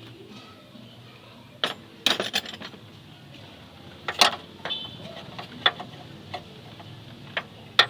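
Metal tools clinking and clanking against each other and against metal parts during engine-mount work, in several sharp, irregular knocks with a cluster about two seconds in and a loud clank about four seconds in.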